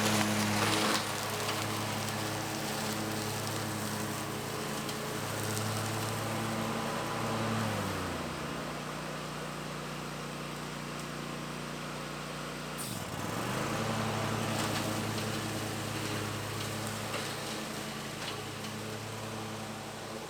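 Bad Boy Maverick zero-turn mower's engine running steadily. Its pitch drops a little about eight seconds in, then dips sharply and briefly about two-thirds of the way through before climbing back.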